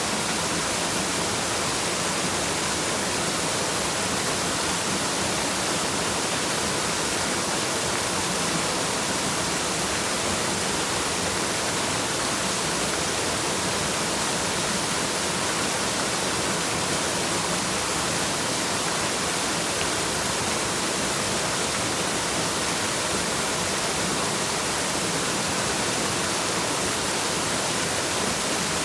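Waterfall: a steady rush of falling water, an even hiss with little low rumble, unchanging throughout.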